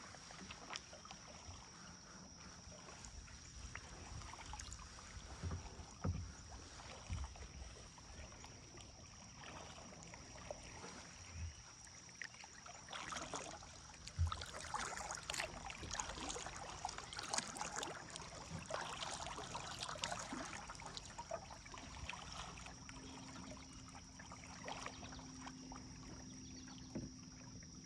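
Kayak paddle dipping and pulling through river water, with splashy strokes bunched in the middle and a few low knocks. A thin, steady high tone runs underneath.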